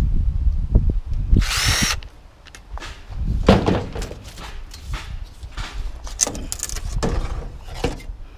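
Aluminum windows being taken apart: a brief power-tool whir about a second and a half in, then a run of knocks and clatter of metal frames being handled. Wind rumbles on the microphone.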